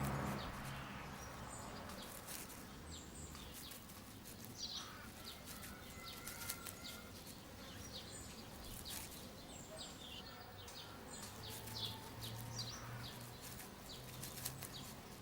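Faint outdoor nature ambience with small birds chirping now and then in the background.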